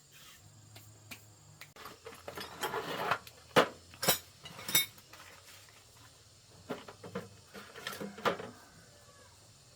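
Hard metal objects clinking and knocking together in an irregular series of sharp strikes. Three loud clanks come near the middle, followed by a cluster of lighter clinks.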